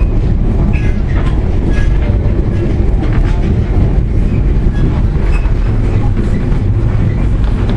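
VIA Rail passenger train running along the track, heard from aboard: a steady low rumble of wheels on rails with scattered short squeaks and clicks.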